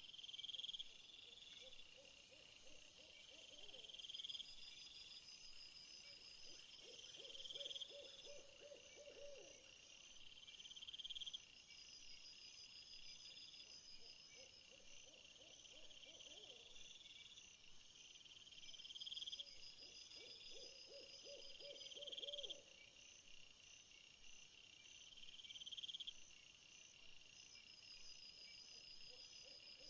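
Faint night-time insect chorus of steady high pulsing trills, with a louder high buzz in the first several seconds. A lower trilled call comes in about every three and a half seconds.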